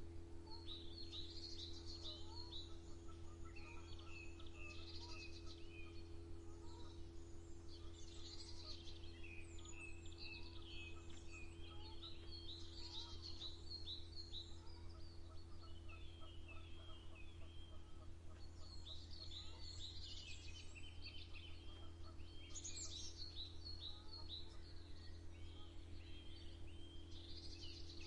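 Chorus of small songbirds chirping and trilling continually, several calling over one another, over a steady low hum.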